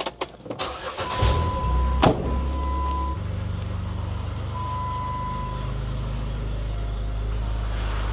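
Jeep Wrangler JK's 3.8-litre V6 starting up and settling into a steady idle, after a few clicks. Three short electronic chime beeps sound from the dash in the first few seconds.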